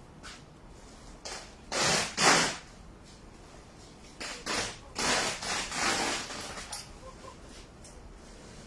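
Several short bursts of handling noise, scrapes and rustles of objects being moved; the two loudest come close together about two seconds in, and a longer run follows around the middle.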